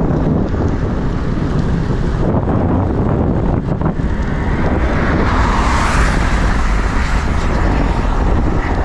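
Wind buffeting the microphone: a loud, steady rumbling noise, heaviest in the low end.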